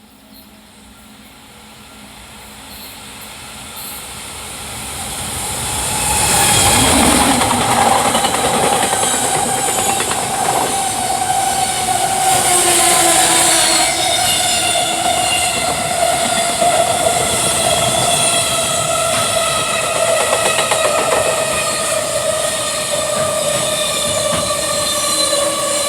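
Freight train passing through a station at speed: the rumble rises over about six seconds as it approaches, then stays loud as the train runs past, with a steady whine that slowly drops in pitch.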